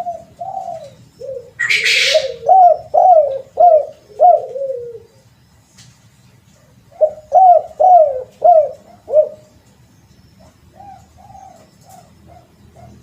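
Spotted dove cooing: a quick run of repeated coos, a pause of about two seconds, another run of about five coos, then softer short coos near the end. A brief hiss of noise cuts across about two seconds in.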